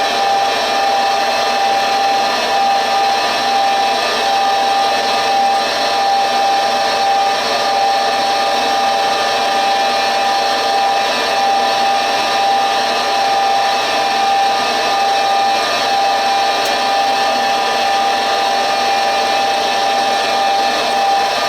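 York 90+ gas furnace's fan motor running steadily, a constant whine over a rushing hiss of moving air.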